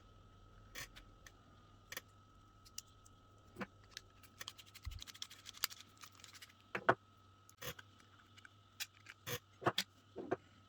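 Small plastic and metal parts being handled and taken apart: irregular clicks and taps, a short stretch of scraping near the middle, and a few louder clicks in the second half. A faint steady whine sits underneath throughout.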